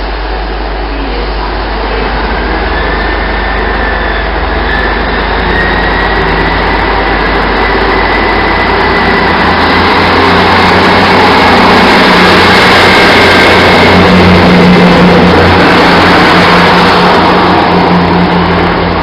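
A vehicle's engine running under load, growing louder, with a thin whine that slowly rises in pitch as it speeds up.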